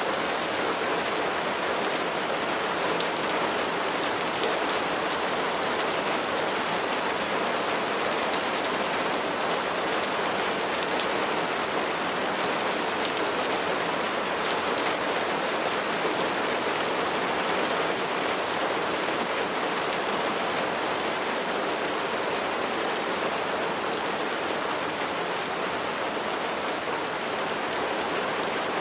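Steady rain falling, a dense even hiss of many drops hitting a surface, with small separate drop ticks on top.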